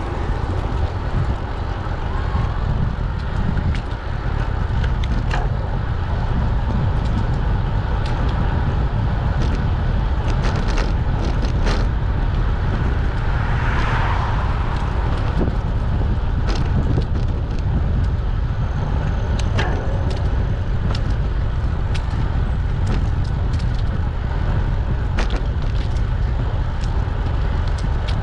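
Wind rumbling on the microphone of a moving bicycle, with scattered clicks and rattles from the bike over the road surface. About halfway through, a rushing noise swells and fades away.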